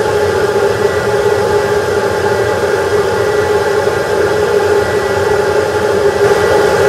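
A motor running steadily with a constant hum and hiss that does not change.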